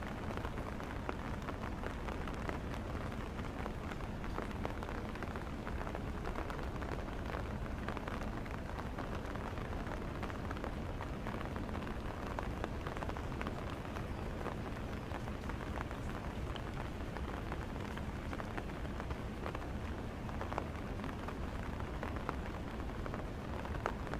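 Rain falling steadily in a rainstorm: an even hiss with many small, scattered drop ticks.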